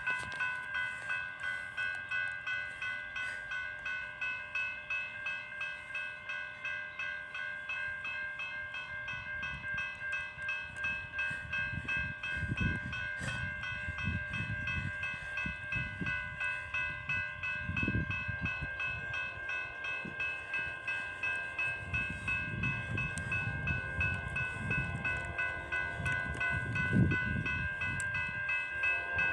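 Railroad crossing bell ringing steadily at about two strokes a second. From about twelve seconds in, low rumbling comes and goes underneath.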